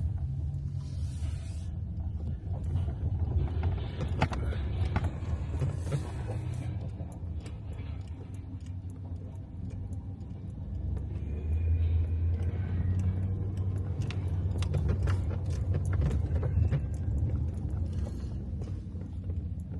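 Low engine and road rumble heard from inside a moving vehicle, swelling louder for several seconds past the middle, with scattered small clicks and knocks.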